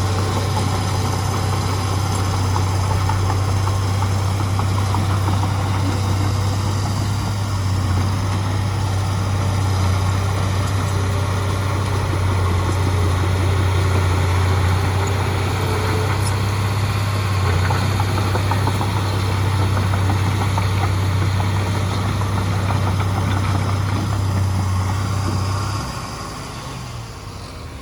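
Heavy diesel engine of a dump truck or bulldozer running steadily with a strong low hum, dropping in level about two seconds before the end.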